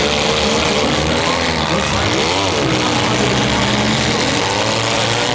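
Several demolition derby car engines running together, unmuffled and revving, with overlapping engine notes; one engine revs up and drops back about two seconds in.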